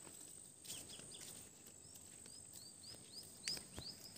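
Faint outdoor ambience: a small bird gives a quick series of short chirps, about three a second, in the second half, over a steady high insect drone. A few soft footfalls on a concrete path are heard, the clearest one near the end.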